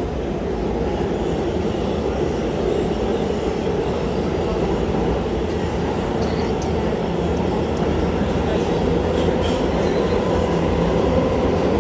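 New York City Subway A express train running between stations, heard from inside the car: a steady rumble of wheels and motors that grows slightly louder near the end.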